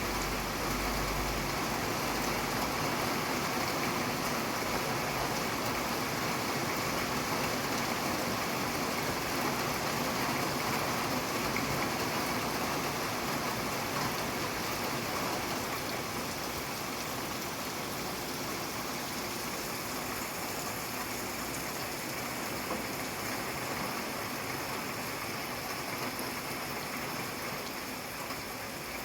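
Steady rain falling, an even hiss of many drops. A low rumble underneath fades out in the first couple of seconds, and the rain eases slightly near the end.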